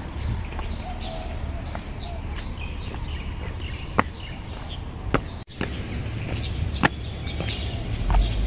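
Songbirds chirping and calling in scattered short notes over a steady low rumble, with a few sharp clicks; the rumble grows louder near the end.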